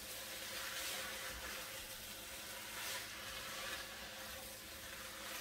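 Chicken wings and chopped vegetables sizzling in oil in an enameled pot, a steady hiss, with faint scrapes of the spoon as they are stirred.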